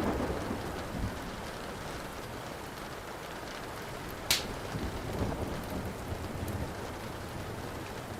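Steady rain with the tail of a thunder rumble dying away in the first second, and one sharp pop from the burning wood a little over four seconds in, among a few fainter crackles.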